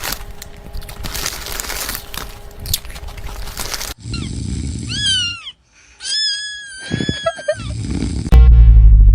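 A cat meowing, first a few short arching meows and then one long, drawn-out meow. It comes after a stretch of noisy background, and a loud musical sound cuts in near the end.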